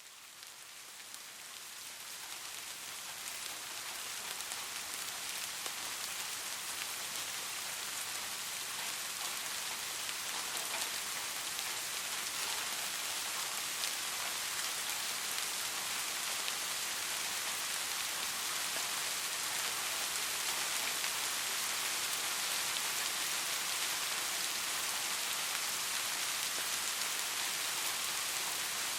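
Steady rain falling on a surface: an even hiss with fine patter of drops, fading in over the first few seconds and then holding steady.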